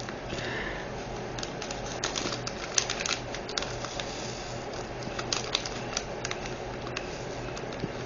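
Scattered light clicks and taps of small plastic pieces: diamond painting resin drills and their plastic storage containers being handled during a kit up, over a faint steady hum.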